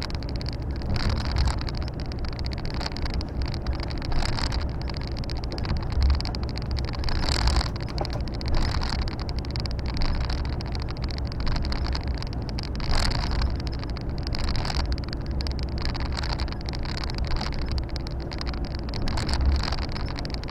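Volvo FH 460 truck on the move, heard from the cab: a steady low engine drone under road and tyre noise, with a few brief swells of louder noise.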